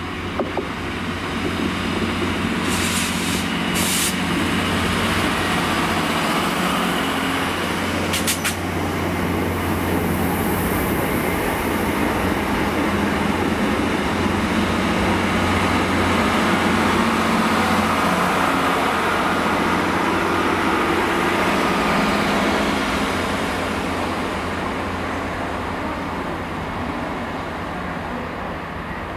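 Passenger multiple-unit trains running along the platform: a steady engine and rolling noise that builds to its loudest about halfway through and fades near the end, with a few sharp clicks in the first nine seconds.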